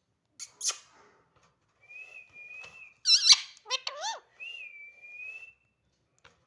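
Pet parrot whistling two thin, steady notes, with a loud warbling squawk and a short wavering call between them about three seconds in; a brief scratchy rustle comes under a second in.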